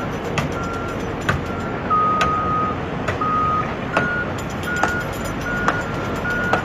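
RC model truck's electronic reversing beeper giving repeated short beeps, with one longer beep about two seconds in, over steady motor and gear noise. Sharp clicks come about once a second.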